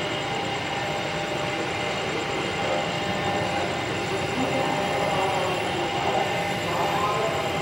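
Electric commuter train passing close by: a steady, continuous running noise of wheels on rail, with a few steady tones over it.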